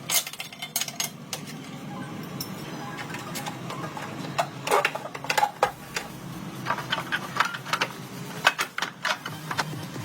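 Irregular metallic clinks and taps of hand tools and small metal parts being handled, over a low steady hum.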